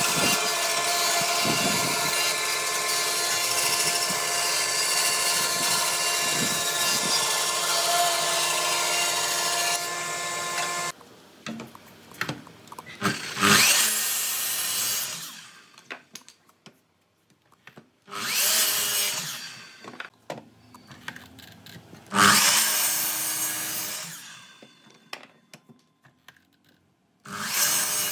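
Power woodworking tools working wood. A machine runs steadily for about eleven seconds and then cuts off suddenly. It is followed by four short bursts of a tool, each a second or two long, a few seconds apart.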